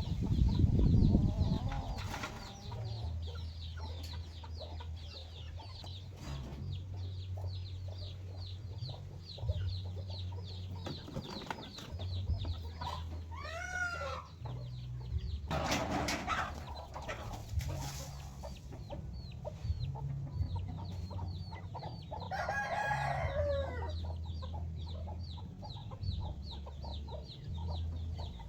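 Free-range chickens clucking, with a rooster crowing twice, near the middle and again about three-quarters through. A fast, even chirping goes on steadily behind them.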